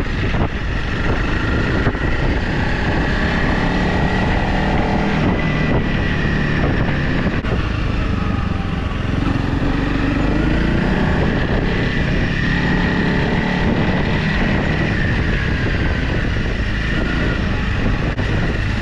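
Motorcycle engine running steadily as the bike is ridden along a rough trail, its pitch rising and falling a little with the throttle.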